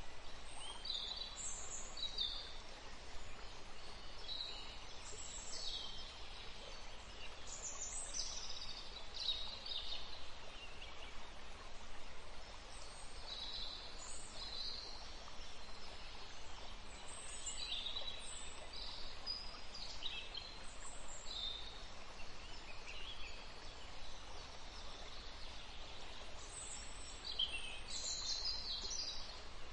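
Small birds chirping in short, scattered high calls, with a steady low background rumble beneath.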